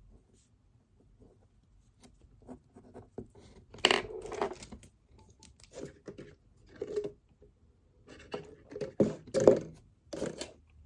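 Irregular knocks, scrapes and rustles of paper and stationery being handled on a desk, beginning about two seconds in, with the loudest clatters around four and nine seconds in.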